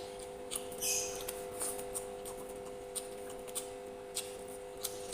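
Close-up eating sounds: chewing and wet mouth clicks with small crunches, in short irregular bursts, over a steady electrical hum.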